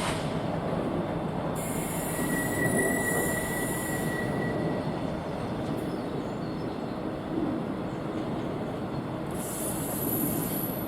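Freight train rolling past with a steady rumble of wagon wheels on the rails, and a thin, high wheel squeal lasting a couple of seconds about two seconds in.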